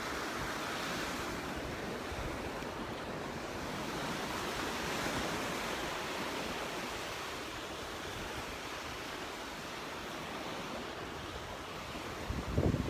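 Gulf surf washing onto the beach, a steady wash that swells and eases gently, with a few gusts of wind buffeting the microphone near the end.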